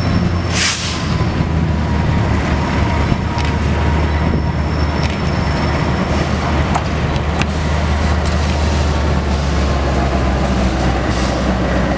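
Diesel locomotive engine running with a steady low drone as the locomotive approaches and passes hauling passenger coaches. A short burst of hiss comes about half a second in, and a few sharp clicks come later.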